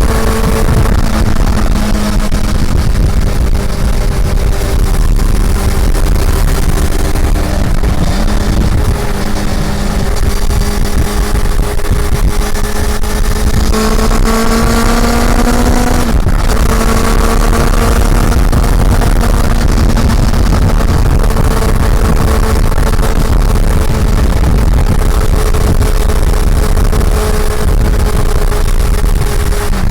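Honda CB400 Super Four's inline-four engine under way on the road, holding steady revs. For a few seconds mid-way the revs climb, then drop sharply at an upshift, and it settles into an even cruise.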